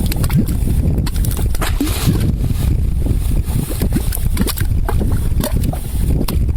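Salton Sea mud pots bubbling: carbon dioxide gas rising through thick mud, with many quick plops and pops as bubbles burst, over a steady low rumble.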